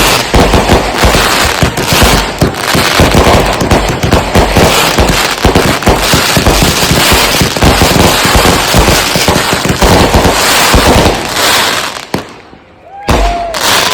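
Consumer firework cakes firing a rapid, dense barrage of aerial shots for about twelve seconds, then stopping, with one more shot about a second later.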